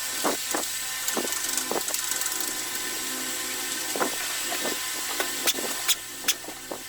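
Hand tools working on a motorcycle-type engine on a bench: scattered, irregular metal clicks and knocks over a steady hiss.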